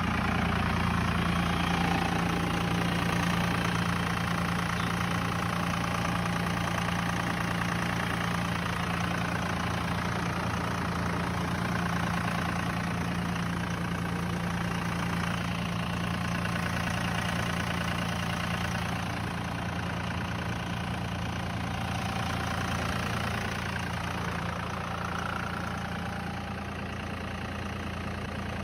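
1999 Dodge Ram 2500's 5.9 24-valve Cummins diesel running steadily at a cold high idle after a below-zero start, the engine in its three-cylinder cold-idle mode.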